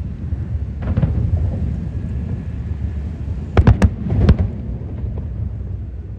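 Aerial fireworks shells bursting over a continuous low rumble: one burst about a second in, then a quick cluster of four loud, sharp bangs a little past the middle.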